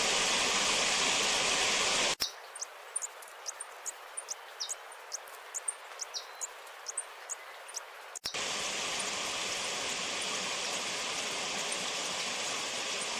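Purple-crowned fairy hummingbird giving rapid, thin, high chip calls, a few a second, for about six seconds. Before and after the calls is a steady rushing hiss like running water, which cuts off abruptly about two seconds in and returns just as suddenly.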